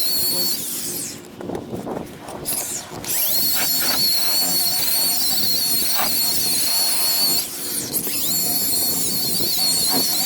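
DeWalt electric buffer running with a steady high whine as its pad works compound on a boat hull. About a second in the motor stops, and it spins back up near three seconds. Near the end it briefly slows and picks up again.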